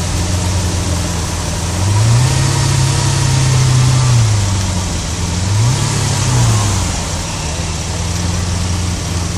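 Lamborghini Aventador LP700-4's V12 engine idling, then revved twice: a longer rev held for a couple of seconds about two seconds in, and a short blip about six seconds in, each falling back to a steady idle.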